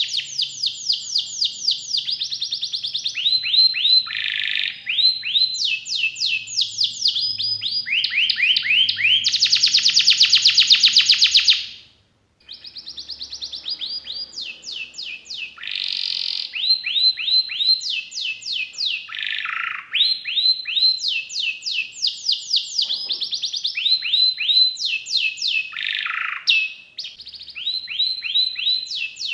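Domestic canary singing a long, continuous song of fast trills. Each trill is a run of rapidly repeated high notes that switches to a new note type every second or two, with a brief pause about twelve seconds in.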